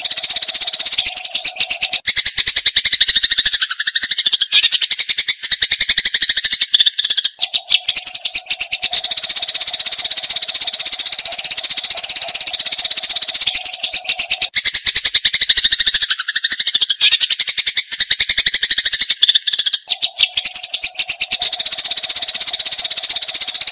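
Eurasian tree sparrows chattering in a fight: a dense, unbroken stream of rapid, high chirps, with the same passage repeating about every twelve seconds as a looped training recording.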